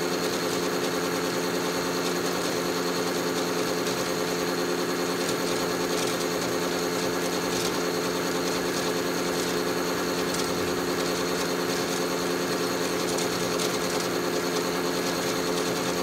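Battery-powered toy washing machine's small electric motor spinning the drum in its final spin cycle, a steady hum that does not change. The batteries are running low.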